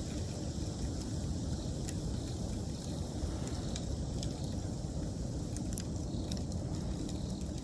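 Wood bonfire burning with a steady low rumble and scattered sharp crackles and pops. Autumn insects chirp steadily and high-pitched in the background.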